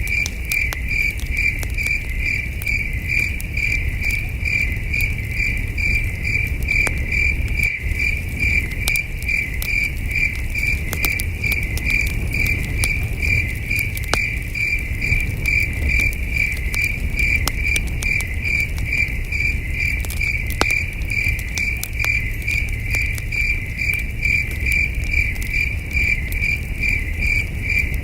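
Crickets chirping in a steady, evenly pulsed rhythm, over the crackle and sharp pops of a campfire and a low rumble.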